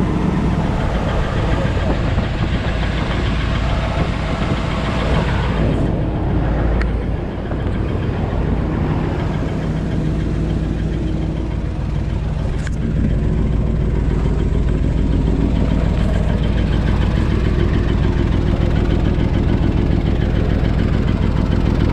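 Used tow truck's engine running steadily, its sound changing about six seconds in and settling slightly louder from about thirteen seconds.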